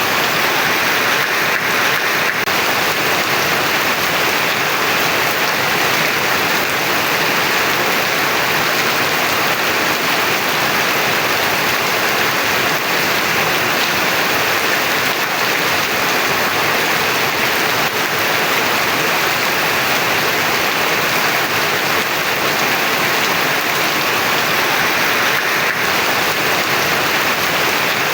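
Heavy rain falling steadily, a dense even downpour with no letup.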